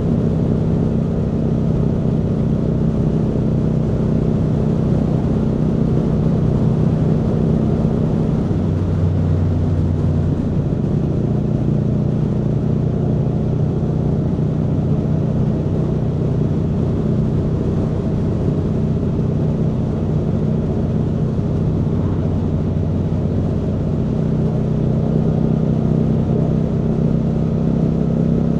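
Aprilia Tuono V4 motorcycle's V4 engine running under way at a steady speed, its pitch holding nearly constant with little revving.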